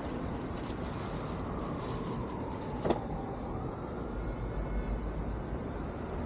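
Steady outdoor road-traffic noise, with a vehicle going by and one sharp click about three seconds in.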